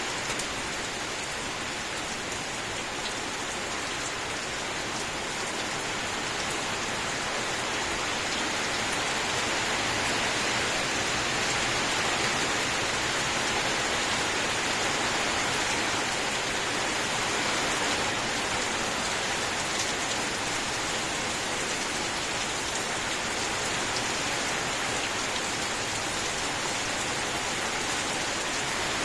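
Steady rain falling: a continuous, even hiss of many drops that swells slightly in the middle.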